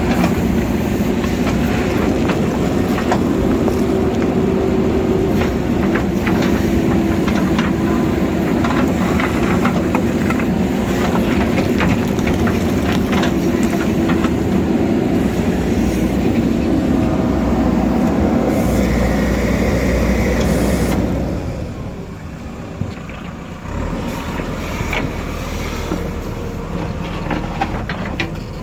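JCB backhoe loader's diesel engine running hard under load, with scattered knocks and clanks of the bucket working rock. About three-quarters of the way through the engine drops to a quieter, lower-revving note.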